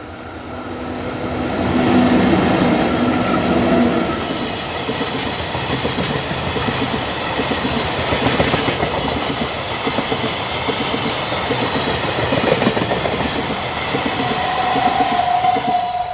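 A freight train hauled by EF64 electric locomotives passing close by. The locomotives come in with a rising hum and go by a couple of seconds in, then the wagons roll past with a steady clickety-clack of wheels over the rail joints. A steady whine joins near the end.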